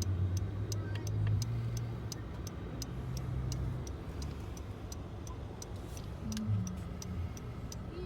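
A car's turn-signal or hazard indicator ticking steadily, about two clicks a second, heard inside the cabin over the low hum of the idling engine.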